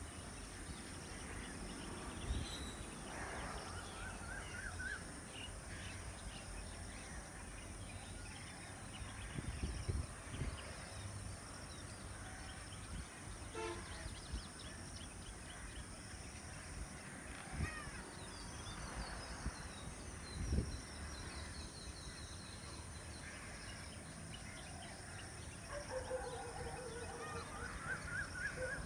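Scattered bird calls over a steady high-pitched hum and a low rumble. There is a short run of repeated rising notes about three seconds in, and several birds call together near the end.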